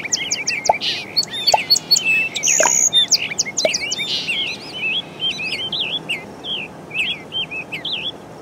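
Birds chirping and singing, many short rising and falling calls overlapping, busiest and loudest in the first half and thinning out after about four seconds.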